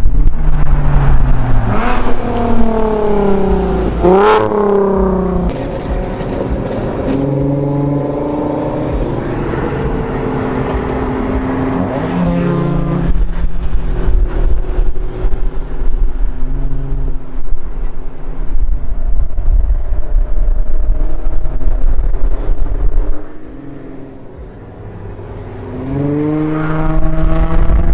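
Car engines revving and accelerating, the engine note climbing in pitch several times, over a heavy low rumble. The sound drops away briefly a little before the end, then the engines come back loud.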